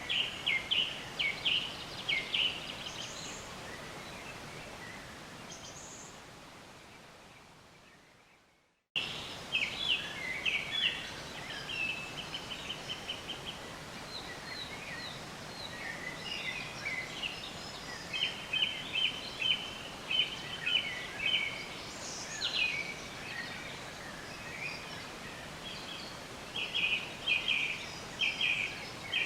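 Several songbirds chirping and singing in quick trills over a steady background hiss. About two seconds in the sound begins to fade, dies away to silence by about 9 s, then cuts back in abruptly and the birdsong carries on.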